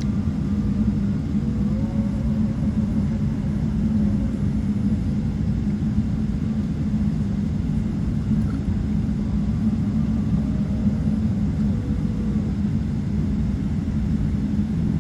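Steady low rumble of a Boeing 777-200's engines and airflow heard inside the passenger cabin.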